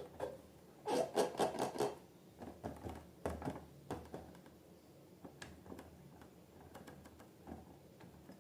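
Slime being worked by hand, with a quick run of about six sticky clicks about a second in, then scattered softer clicks.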